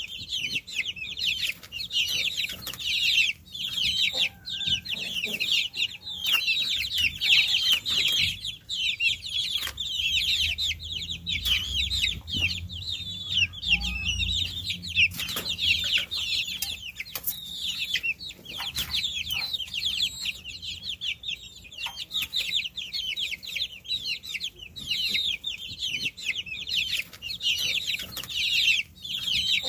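A brood of baby chicks peeping continuously, many high, short, downward-sliding peeps overlapping in a dense chorus.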